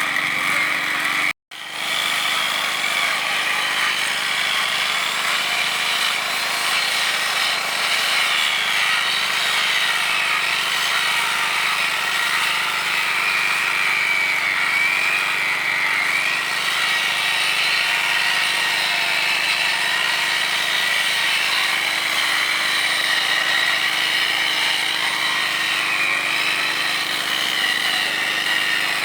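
A motor-driven power tool runs steadily, with a wavering high whine over a continuous mechanical noise. It cuts out for an instant about a second and a half in.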